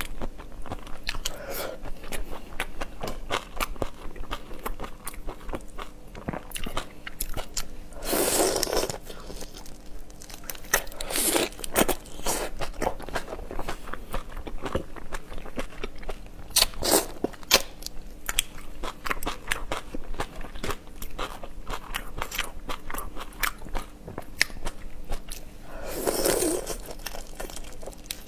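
Seafood being eaten close to the microphone: a steady run of crunching bites and wet chewing. Louder, longer bursts come about eight seconds in and again near the end.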